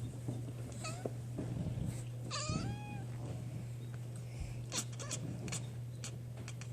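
Domestic cat giving a few short meows with sliding pitch, the longest about two and a half seconds in, over a steady low hum.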